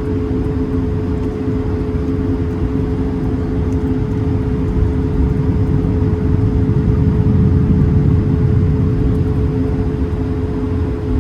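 Cabin noise inside an Airbus A220-300: a steady low rumble of airflow and its Pratt & Whitney PW1500G geared turbofan engines, with two steady tones running through it. The rumble swells a little in the middle.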